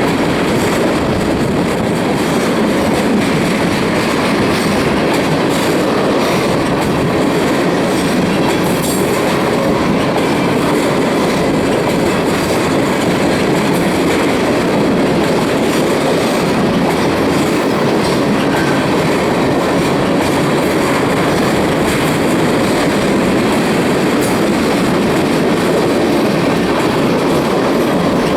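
Freight train cars rolling past at speed: a steady, loud rumble of steel wheels on rail with rhythmic clickety-clack from the rail joints.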